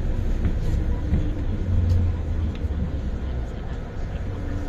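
MTR Island Line M-Train, a Metro-Cammell electric multiple unit about 45 years old, running on the track with a steady low rumble from wheels and running gear, easing off a little near the end.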